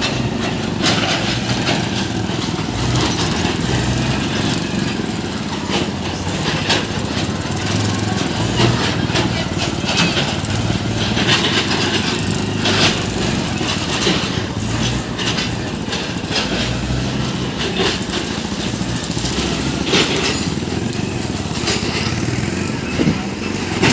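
Tractor diesel engine running steadily at low speed, with voices of onlookers in the background.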